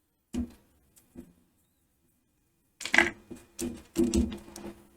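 Scattered clicks and knocks of small tools being handled and set down on a workbench: a few single taps, then a quick cluster of knocks near the end, some with a short low ring.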